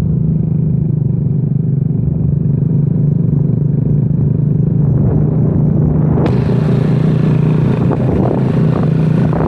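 Honda Astrea Grand's small single-cylinder four-stroke engine running at a steady speed with a low drone. About six seconds in, a broad hiss suddenly joins it.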